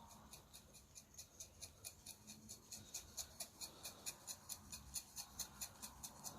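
Faint, rapid, regular ticking, about four to five ticks a second, getting a little louder toward the end.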